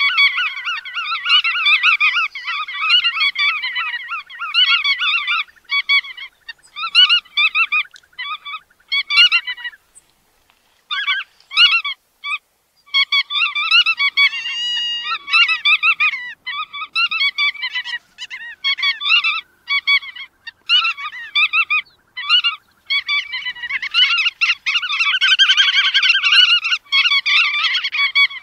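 A flock of bar-tailed godwits calling: short, nasal, rapidly repeated notes from several birds overlapping. The calls break off briefly about a third of the way in, then thicken into a dense chorus near the end.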